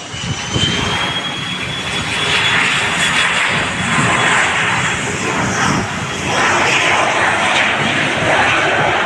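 An airplane's engines passing close and loud: a dense rushing roar that builds over the first few seconds, with a thin high whine rising in pitch and then holding steady.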